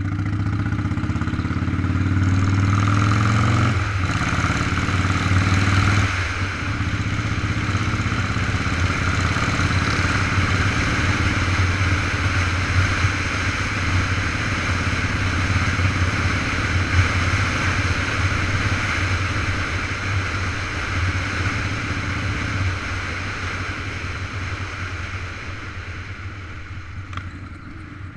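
Motorcycle engine under way, its pitch climbing and then dropping at gear changes about four and six seconds in, over a steady rush of wind. It runs on more evenly and gets gradually quieter near the end.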